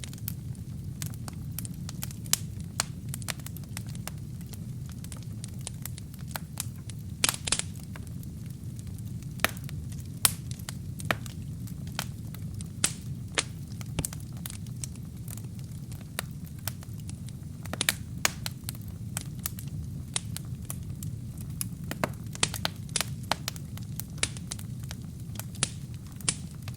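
Wood fire burning in a fireplace: kindling and logs crackling with frequent irregular sharp pops over a steady low rumble of flame, with a quick cluster of pops about a quarter of the way in.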